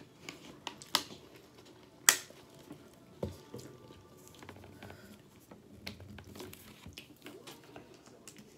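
Close-miked mouth sounds of someone eating creamy pasta: wet chewing and squishing with a few sharp clicks, the loudest about two seconds in. Near the end, a plastic water bottle is handled.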